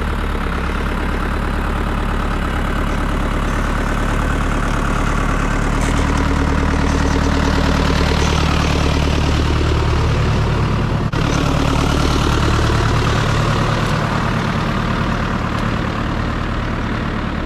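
Diesel tractor engine running steadily, with a momentary dip about eleven seconds in.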